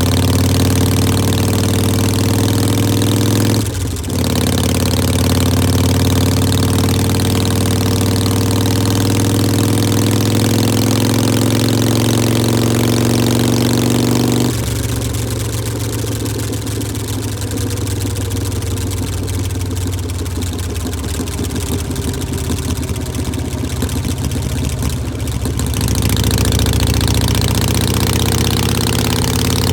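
Harley-Davidson Iron 1200's 1200 cc air-cooled V-twin running at idle through Vance & Hines Shortshots exhaust, a steady low note. It dips briefly about four seconds in, and its tone changes from about halfway until near the end.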